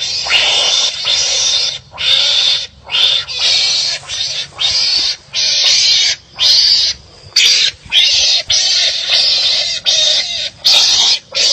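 Harsh, raspy animal calls in a quick unbroken series, each about half a second long with short gaps between them, more than one a second: the squabbling cries of wild animals fighting and biting at each other.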